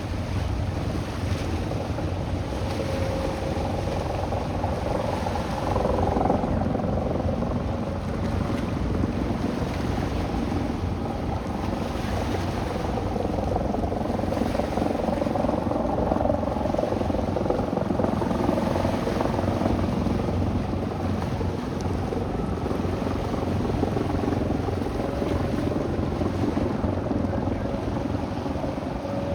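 Boat motor running steadily under a rush of wind and water, with a faint hum that comes and goes.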